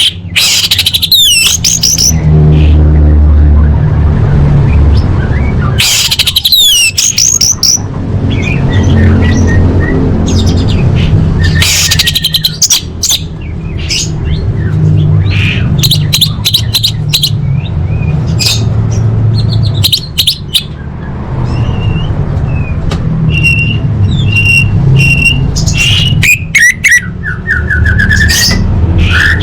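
Female orange-headed thrush calling: quick chirps and rising and falling sweeps, with a run of short identical repeated notes in the second half, over a steady low hum. These are the female's calls used as a lure to get a silent male to sing.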